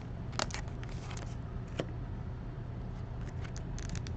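Baseball trading cards being handled and flipped one after another, with short clicks and light scrapes of card on card: a pair of clicks about half a second in, another near two seconds, and a quick run of them near the end, over a steady low hum.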